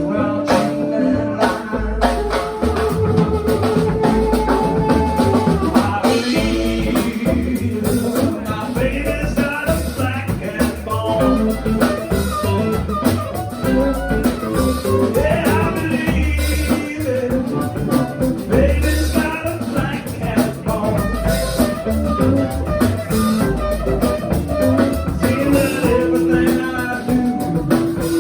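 Live blues band playing an instrumental passage between sung verses: guitar lines over bass and a drum kit keeping a steady beat.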